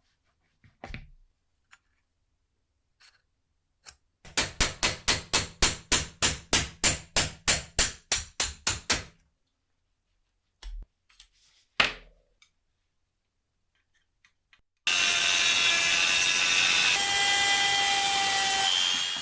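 Hand tool worked in even back-and-forth strokes, about four a second, for some five seconds, followed by a couple of knocks. Then a motorised tool runs steadily for about four seconds, with a slight change in its pitch about halfway through.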